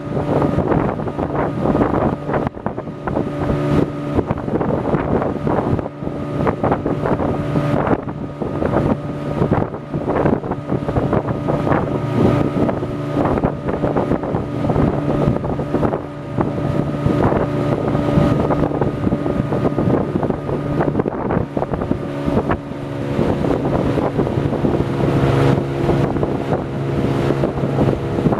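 A motor running with a steady hum, with heavy wind buffeting the microphone.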